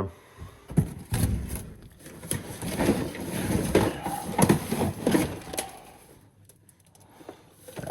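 Small safe being tipped and handled, with irregular knocks and rattling from inside that the owner takes to be a loose shelf, not contents. The rattling dies down near the end.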